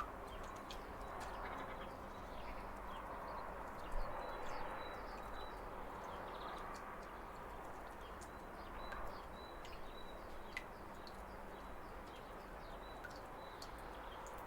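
Waterfall running steadily, with birds chirping over it: many short high chirps and thin repeated notes throughout, and one sharp louder tick about four seconds in.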